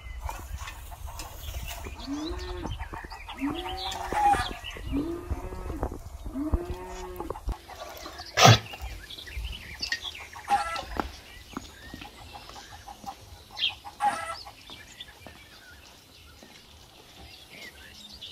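Farmyard animal sounds: chickens clucking, with a low animal call repeated four times that rises and falls each time. A single sharp knock about eight seconds in is the loudest sound, and birds chirp later on.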